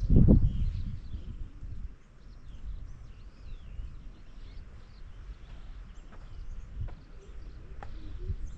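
Birds chirping faintly over a low outdoor background, after a brief low rumble right at the start.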